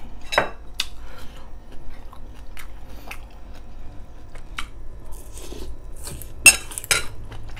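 Close-miked chewing and biting on a mouthful of fresh green onion and braised pork rib, a run of small wet crunches and clicks. Two sharper, louder clicks come near the end.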